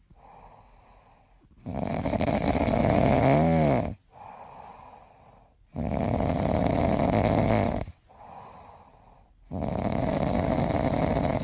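Sleeping grey cat snoring: three long snores about four seconds apart, with quieter breaths between them.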